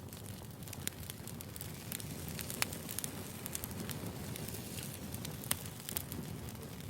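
Wood fire burning, with irregular crackles and pops over a low steady rumble.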